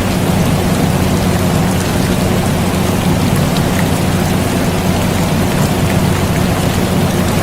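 Rain falling with a few faint drop ticks, over the steady low hum of an air conditioner running.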